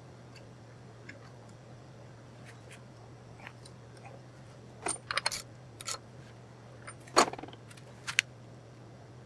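Metal tools and parts clinking as they are handled, with sharp clicks clustered about five seconds in and the loudest clinks around seven and eight seconds, over a steady low hum.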